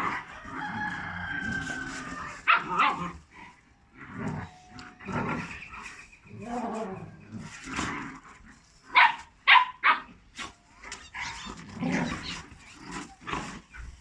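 Dogs growling and barking as they scuffle, with a few sharp loud barks about nine to ten seconds in.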